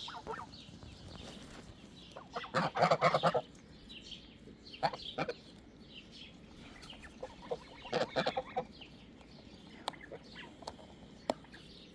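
Backyard poultry calling: a loud run of rapid, pulsing calls about two and a half seconds in and another around eight seconds, with softer clucks and short high peeps between and a few sharp ticks near the end.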